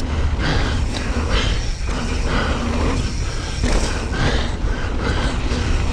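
Mountain bike rolling fast down a dirt trail: knobby tyres running over loose dirt, with a steady wind rumble on the microphone.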